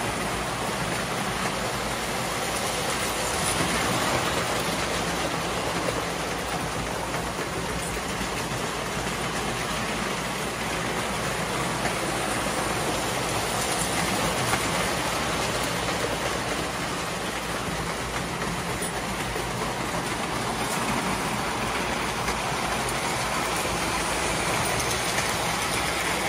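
A train running along its track with a steady running noise, and faint clicks here and there.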